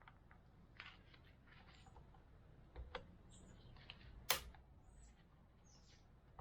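Scattered small clicks and light knocks of hand tools and parts being handled on a workbench, with one sharp click about four seconds in.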